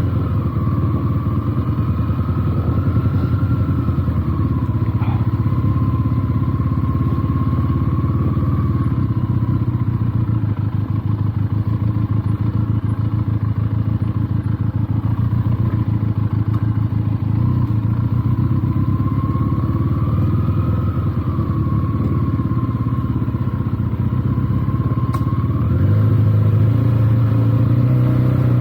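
Benelli TNT 300's 300 cc parallel-twin engine running steadily at low revs while the motorcycle is ridden, picking up a little throttle near the end.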